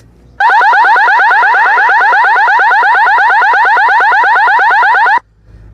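Loud electronic alarm-style warble, a fast train of rising chirps about ten a second, held for about five seconds and cut off abruptly: a sound-effect tone like a car alarm.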